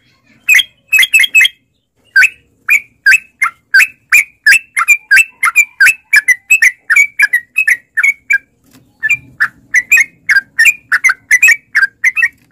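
Yellow-vented bulbul (trucukan) calling in a long rapid run of short, loud chirping notes, about three to four a second, with a couple of short breaks early in the run.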